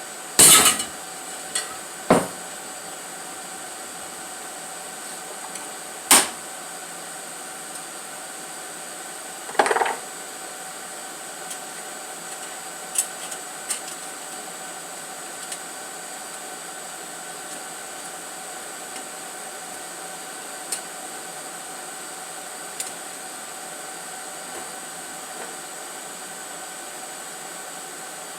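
Several sharp metal clanks and knocks, the loudest in the first ten seconds, then a few light clicks, as hand tools and metal parts are picked up and set down. A steady hum runs underneath.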